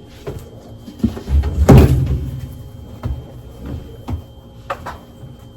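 A cupboard door or lid banged shut about a second and a half in, then a few lighter knocks and clicks of household objects being handled.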